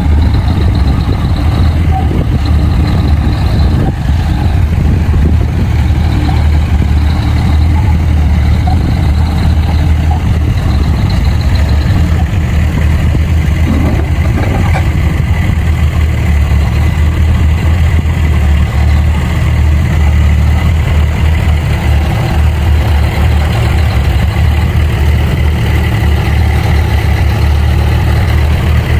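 Bulldozer's diesel engine running steadily, a loud low drone throughout.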